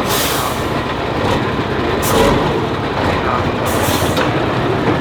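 Heavy off-road trial truck's diesel engine running hard. Three short bursts of hissing cut through it, at the start, about two seconds in and near four seconds.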